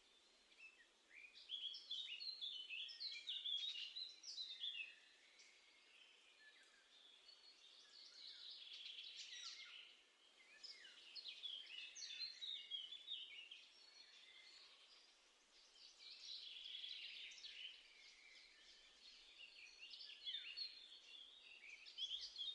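Songbirds singing in repeated phrases of quick, varied chirps and trills, each phrase lasting a few seconds with short pauses between, over faint steady background noise.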